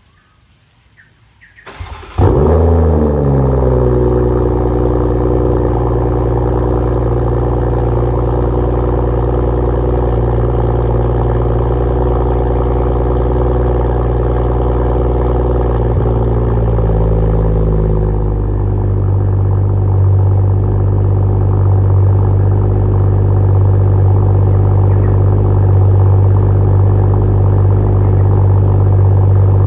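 BMW M340i's B58 turbocharged inline-six starting through a straight-piped catback exhaust: it catches about two seconds in with a short flare, then runs at a steady high idle. About two-thirds of the way through, the idle drops to a lower, deeper steady idle.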